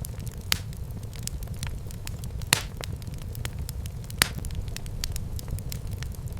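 Wood fire in a fireplace crackling: many small sharp snaps over a steady low rumble of burning, with louder pops about half a second in, midway, and about four seconds in.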